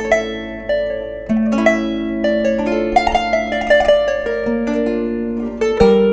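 Kanun, the Turkish plucked zither, played solo: a steady flow of quick plucked notes ringing over held lower notes.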